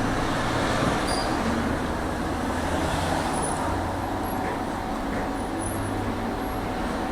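Tram car running between stops: a steady rolling noise of wheels on rails with a low motor hum, and a few faint short high squeaks.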